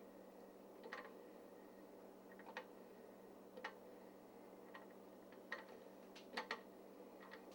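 Faint, irregularly spaced ticks and small pops from an antique metal coffee pot heating water over its alcohol burner, about eight in a few seconds with a close pair near the end, over a steady low hum.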